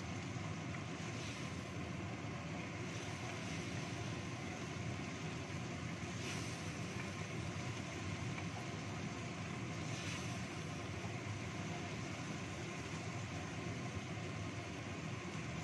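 Red spice paste frying in a wok over a gas burner: a steady sizzle and hiss, with a wooden spatula stirring through it and a few faint scrapes.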